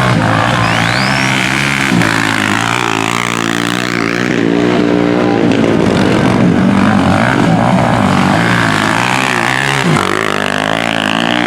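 Several Honda CG single-cylinder four-stroke motorcycles racing, their engines rising and falling in pitch as they rev, shift and pass, with a sharp drop in pitch about two seconds in and again near the end.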